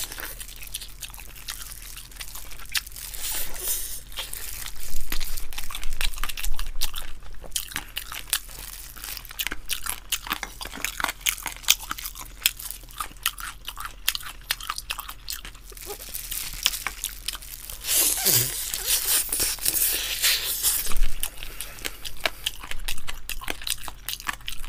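Close-miked chewing and biting of charcoal-grilled spicy chicken wings, with many small crunches and clicks and a few louder noisy stretches of eating.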